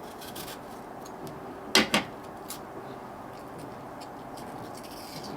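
Two sharp knocks about a quarter of a second apart, about two seconds in, over a low steady background.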